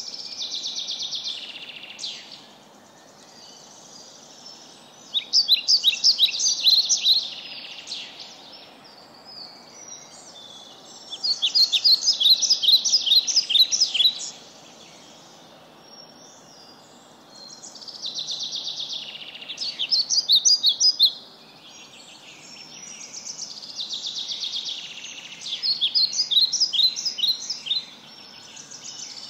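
A songbird singing repeated phrases, each a quick series of high chirping notes lasting two to three seconds, about every five or six seconds, over a faint steady background hum.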